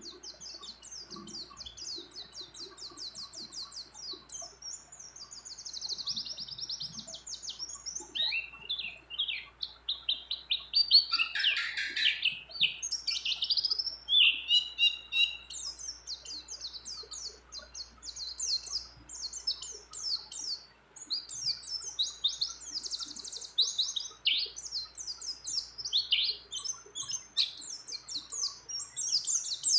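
A white-eye (pleci) singing a long, nearly unbroken high-pitched song of fast trills and chirps, with a louder, lower-reaching phrase about ten to thirteen seconds in.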